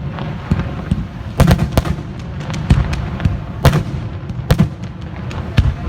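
Fireworks display: shells exploding in irregular sharp bangs, half a dozen loud ones in a few seconds, with smaller pops and crackles between them over a low rumble.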